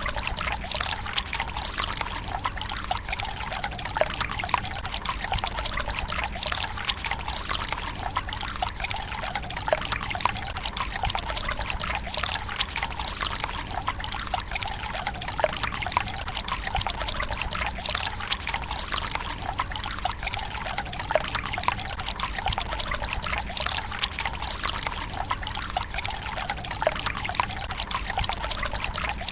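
Water running steadily from a bamboo spout into the stone basin of a Japanese tsukubai: a continuous trickling pour with small splashes.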